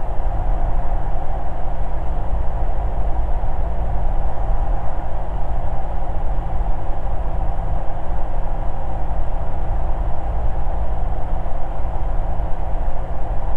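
Cessna 172 engine and propeller droning steadily in the cockpit at approach power.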